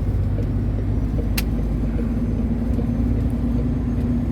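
Long-haul truck's engine and road noise droning steadily inside the cab while driving on the highway, with a steady hum joining about halfway through and one brief tick about a second and a half in.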